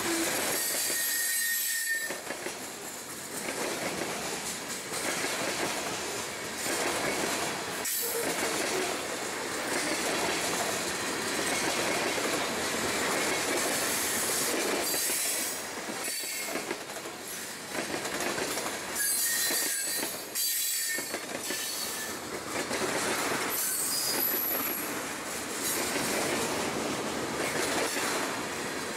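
Freight cars of a mixed manifest train rolling past at speed: a steady rumble of steel wheels on rail, with brief high-pitched wheel squeals now and then.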